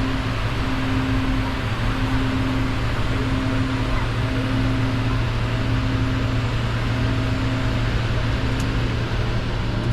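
Steady running noise inside the cockpit of a Bombardier Challenger 605 business jet on the ground, with a low hum and a tone that pulses on and off about once a second.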